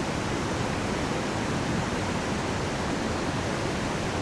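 Steady rush of a river's rapids, an even wash of water noise with no change.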